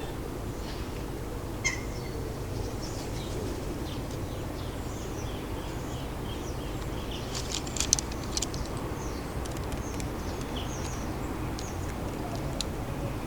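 Small garden birds chirping with many short, high calls over a steady low rumble of city background noise, with a sharp click about two seconds in and a brief cluster of clicks near the middle.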